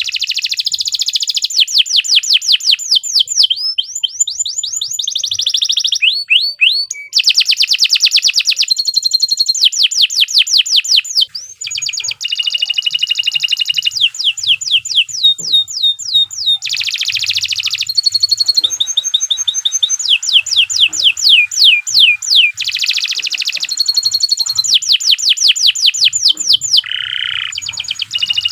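Domestic canary singing a long, unbroken song. Fast trills of rapidly repeated falling notes switch to a new phrase every second or two, with a few held whistled notes between.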